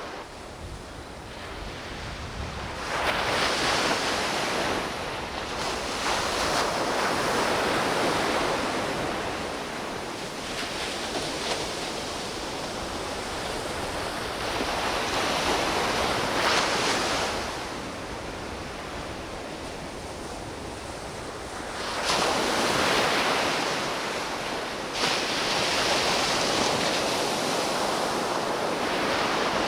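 Ocean surf breaking on a beach, the rush of the waves swelling and falling in long surges several seconds apart.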